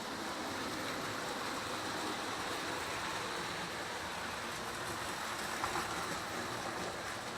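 Several model trains of different gauges running together on a test layout: a steady whir of electric motors and wheels on track, with one short click about five and a half seconds in.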